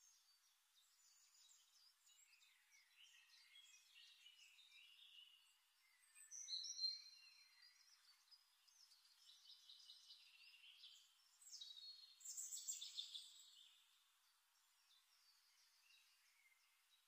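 Faint birdsong: chirps and short whistled glides, louder twice, about six and about twelve seconds in.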